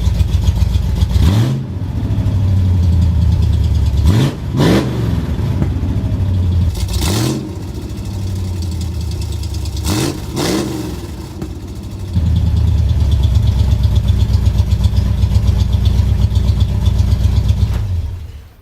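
1974 Ford F-100's 302 V8 running open through headers and a cut exhaust, with a loud, choppy idle. The throttle is blipped several times in the first ten seconds or so, each rev rising and falling quickly, before it settles back to a steady idle. The sound cuts out near the end.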